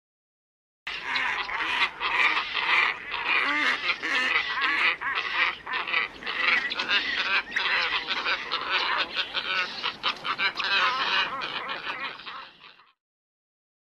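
Black ibis calls: many overlapping harsh calls, as from a flock, played as a bird-trapping lure recording. They start abruptly about a second in and fade out near the end.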